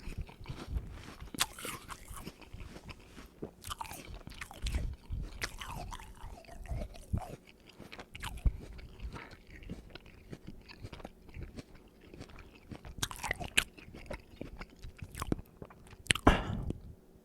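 A person chewing crisp apple close to the microphone: irregular crunches and wet chewing, with a few sharper crunches and the loudest one just before the end.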